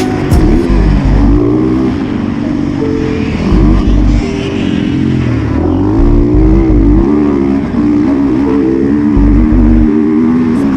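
110cc pit bike engine being ridden, its pitch rising and falling again and again as the throttle opens and closes.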